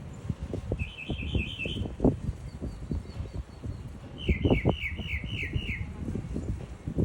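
A small bird calling twice, each time a quick run of about half a dozen repeated chirps; the second run is longer and drops slightly in pitch. Frequent low thumps and rumbling sound throughout, louder than the bird.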